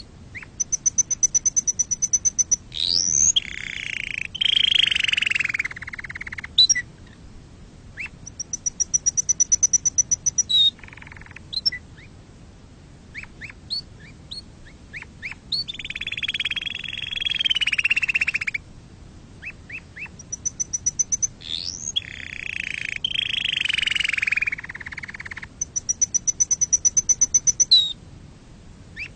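Domestic canary singing: high, rapid trills of quickly repeated notes alternating with lower rolling phrases and quick sweeping notes, in several bursts separated by short pauses.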